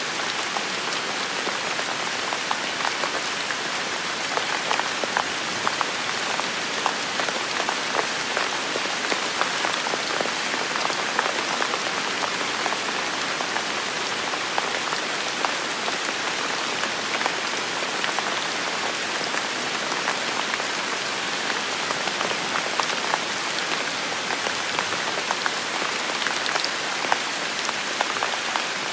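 Heavy rain falling steadily in a forest, a dense even hiss with many close, sharp drop hits.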